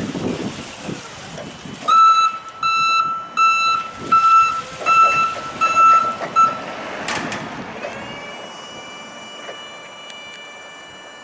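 Mitsubishi FB16NT electric forklift's warning sounder giving a run of short, unevenly spaced high beeps. A high electric motor whine then rises and holds steady as the truck's drive or lift motor runs.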